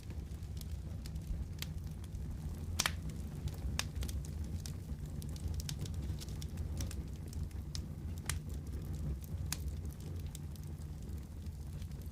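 Wood fire crackling in a fireplace: a steady low rumble of flames with scattered sharp pops, the loudest about three seconds in.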